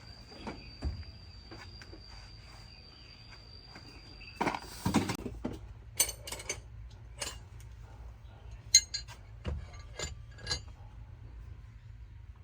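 Hand tools and metal parts clinking and knocking against each other during repair work, with a louder clatter about five seconds in and a run of sharp, bright clinks after it.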